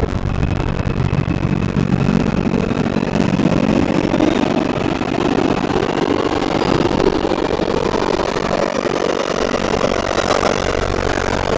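An R142 subway car running and gathering speed, heard from inside the car. Its traction motors and wheels make a steady rumble whose hum rises in pitch over the first several seconds, with a thin high whine above it.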